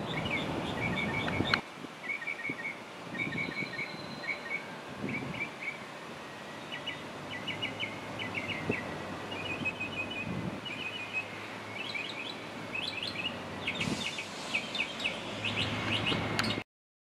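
Songbirds chirping in quick repeated phrases of short notes over steady outdoor background noise, which is louder for the first second and a half; the sound cuts off abruptly near the end.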